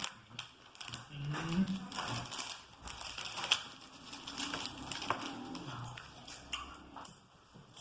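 Crunching and chewing a chocolate hazelnut wafer, with many crisp cracking clicks as it breaks up between the teeth, and a couple of short low hums from the eater.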